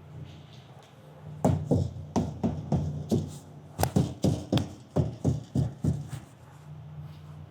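About fifteen sharp knocks struck in quick succession, a few a second, over a steady low hum.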